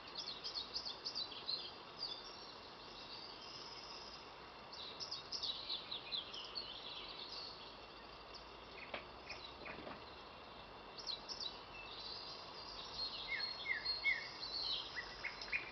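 Thrush nightingale singing: phrases of rapid, high notes with short pauses between them, over a faint steady hiss.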